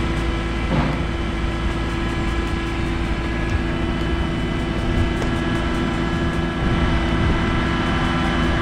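Sea-Doo GTX iS personal watercraft engine running steadily, its note dipping briefly about a second in.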